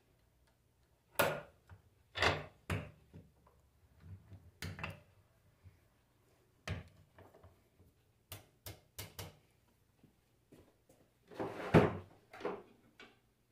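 Irregular knocks, clunks and sharp clicks of tools and metal alternator parts being handled while the alternator is taken apart. There is a quick run of sharp clicks about eight to nine seconds in, and the loudest clunk comes near the end.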